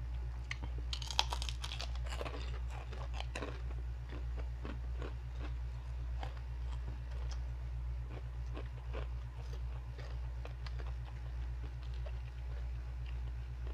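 Crunching and chewing of chicharon (deep-fried pork rinds), dense crackly bites in the first few seconds, then sparser crunches. A steady low hum runs underneath.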